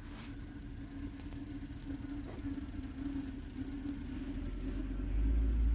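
Motor vehicle engine running, a steady hum over a low rumble that grows louder about five seconds in as the vehicle comes closer.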